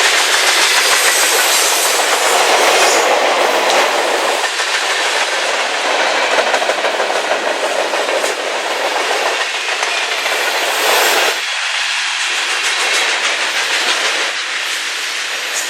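A train passing close by: the steady rolling noise of its cars going past on the rails.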